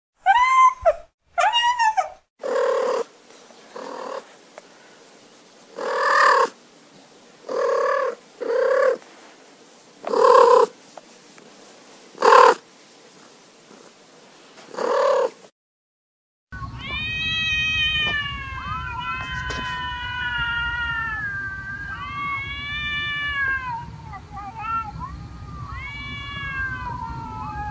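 Domestic cat meowing: a few quick mews at the start, then short meows every second or two. After a brief silence come long, wavering, drawn-out meows over a steady low rumble.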